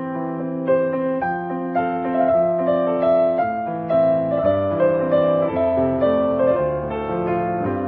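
Gentle piano music: sustained chords over a slow bass line, a new note or chord about every half second.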